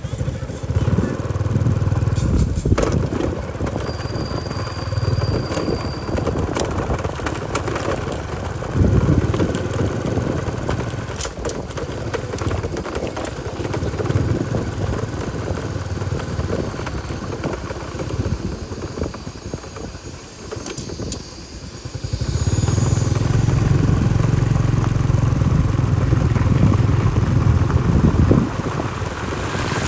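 Motorbike engine running while riding, the engine note rising and falling and growing louder and steadier for the last several seconds.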